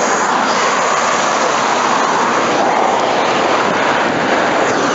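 Road traffic passing a crosswalk: a steady rush of tyre and engine noise that swells and eases slightly as vehicles go by.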